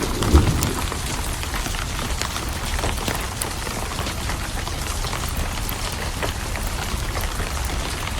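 Steady rain, with the tail of a low thunder rumble dying away in the first second. Scattered sharp ticks run through the rain.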